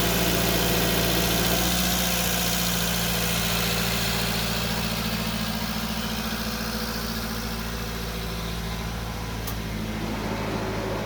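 2008 Subaru Sambar's small four-cylinder kei engine idling steadily, with an even low hum.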